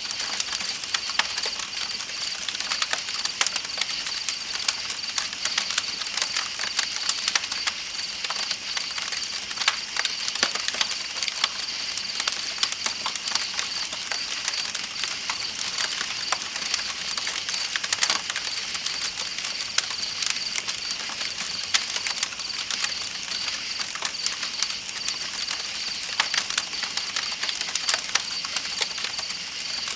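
Campfire crackling with many small sharp pops, over a steady high chorus of night insects and the hiss of a flowing river.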